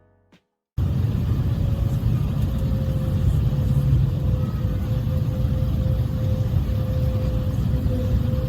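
Jet airliner on landing approach: a steady low rumble of engines and rushing air with a steady whine over it, cutting in abruptly about a second in.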